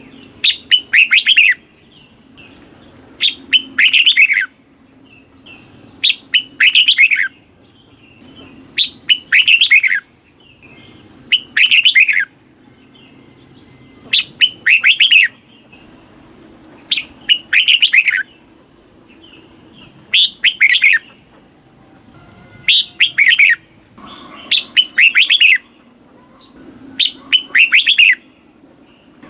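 Red-whiskered bulbul singing: loud, bright phrases of several quick whistled notes, each about a second long, repeated about every two and a half seconds.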